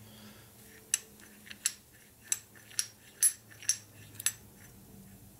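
Light metal clicks and taps, about eight in three seconds, as small engine parts are handled, over a faint steady hum.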